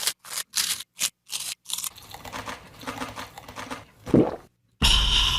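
Close-miked crunching as a spicy chip is chewed, about three sharp crunches a second at first, then softer wet chewing. A loud breathy burst comes near the end.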